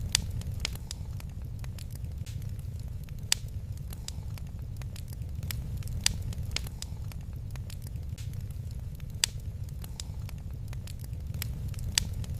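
Wood fire crackling in a fireplace: irregular sharp pops and snaps, a handful louder than the rest, over a steady low rumble of the burning fire.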